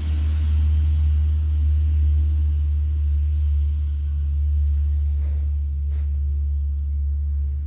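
A steady, loud low rumble, with one sharp click about six seconds in.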